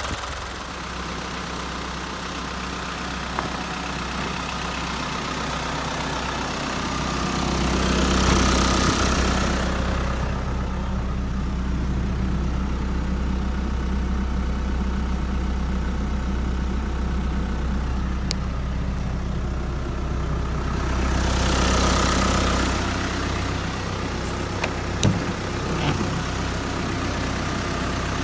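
Hino S05D diesel engine of a Hino Dutro truck idling steadily, with two brief swells in level, one about a third of the way in and one near three quarters.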